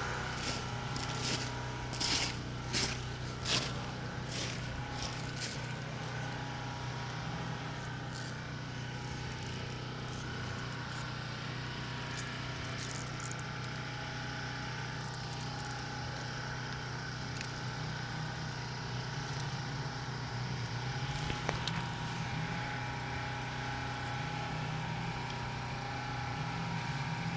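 Small generator engine running steadily with an even hum. A run of sharp crackles comes in the first few seconds, and a few fainter ones follow later.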